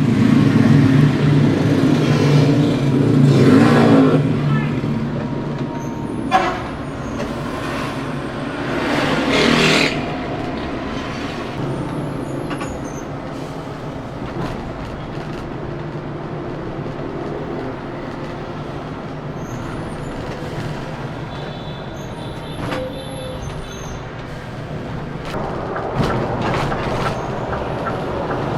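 Scania K410CB coach on the move: a steady low engine and road noise, loudest in the first few seconds, with a few louder passing whooshes along the way.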